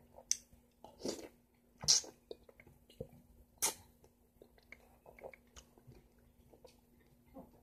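Close-up mouth sounds of someone eating soft, juicy yellow honeydew melon: chewing with sharp, wet smacks and clicks, a handful of louder ones in the first four seconds and fainter ones after.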